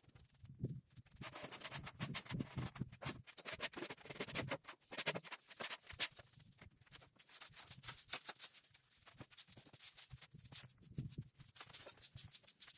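Fast, rhythmic scratchy strokes of a tool rubbing over a surface, several a second, with a short lull about halfway through.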